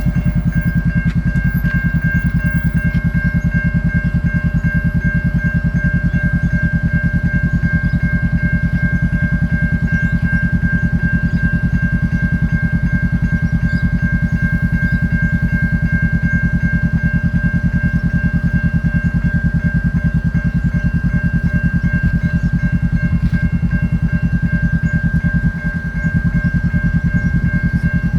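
Railway level crossing warning bell ringing continuously with a rapid, even beat and a steady ringing tone, with a brief drop near the end.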